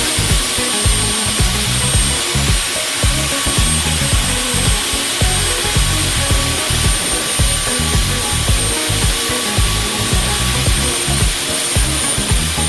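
Background music with a steady beat over the steady grinding hiss and high whine of a concrete core cutting machine drilling through a slab.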